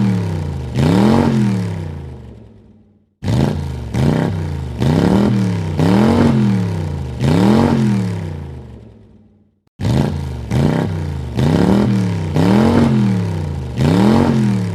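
Car engine free-revving in quick blips, the pitch climbing and falling back on each one, about a dozen in all. The blips come from three separate recordings joined by abrupt cuts, with a short silence about 3 seconds in and about 10 seconds in.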